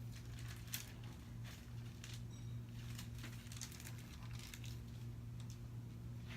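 Paper rustling in short scattered bursts as picture-book pages are handled and turned, over a steady low electrical hum.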